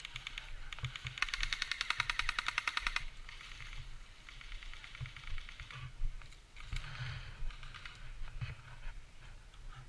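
Airsoft electric guns firing on full auto: a rapid, even rattle of shots lasting about two seconds starting about a second in, followed by fainter bursts and scattered single shots.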